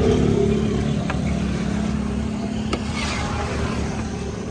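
Steady motor drone with a held low hum, slowly easing off, broken by a few sharp clicks.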